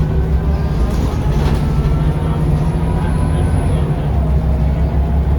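Scania L94UB bus engine and drivetrain running steadily under way, with a deep low hum and a faint whine that glides slowly up and down in pitch.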